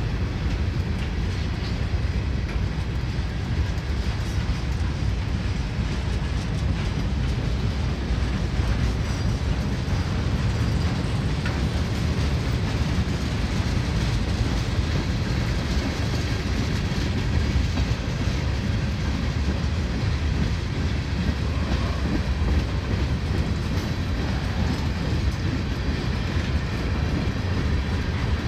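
Freight cars of a mixed freight train (boxcars, tank cars and hoppers) rolling past at a steady speed: a continuous low rumble of steel wheels on the rails with light clacking over the rail joints.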